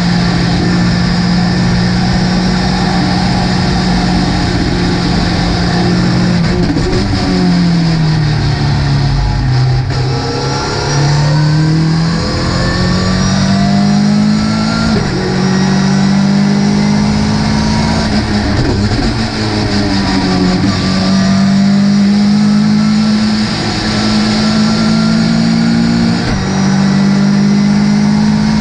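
Ginetta GT5 race car engine under load: steady revs at first, then falling as the car slows about a quarter of the way in, then pulling back up through a series of gear changes, each a rising pitch with a short drop between. Near the end there is another brief dip before the revs climb again.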